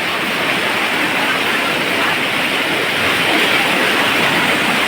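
Floodwater rushing, a loud steady noise without breaks.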